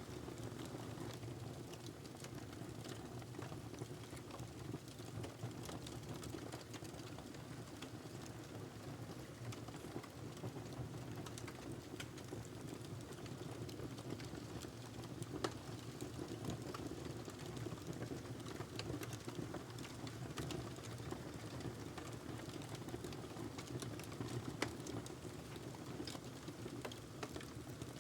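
Wood fire burning in a fireplace: steady crackling with frequent small pops over a low rush of flames. Two louder pops come about fifteen and twenty-five seconds in.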